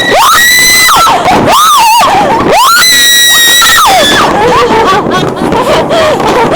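Whistling fireworks shrieking one after another, each whistle rising to a steady high pitch, holding briefly, then falling away, about one a second, over a crackling background.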